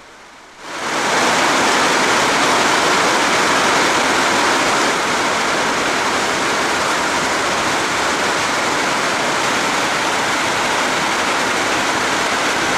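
Floodwater pouring over a dam, a loud steady rush of water that sets in sharply about a second in.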